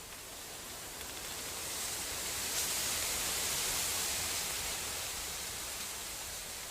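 Snowstorm wind gusting, a hiss that swells over a couple of seconds and then slowly dies down.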